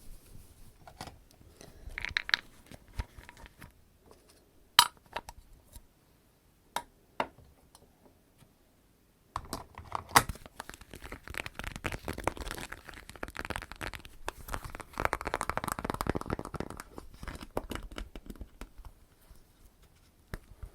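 Close-miked ASMR handling sounds: a few sharp taps and clicks, then from about nine seconds in a dense crinkling rustle lasting several seconds.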